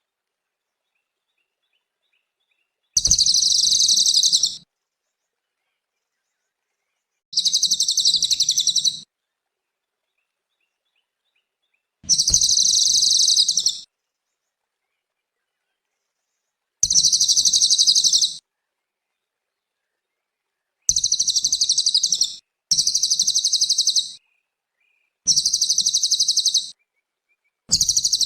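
Cililin songbird singing short, fast, high-pitched trilled phrases, each about a second and a half long, repeated eight times with silent gaps between them.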